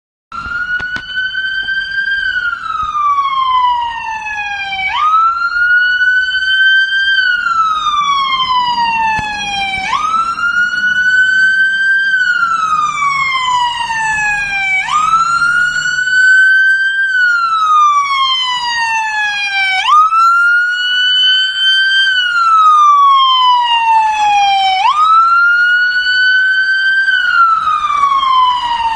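Scania P360 fire engine's siren wailing on an emergency run. Each cycle jumps up in pitch, climbs briefly, then falls slowly, about every five seconds. A truck engine rumbles faintly beneath.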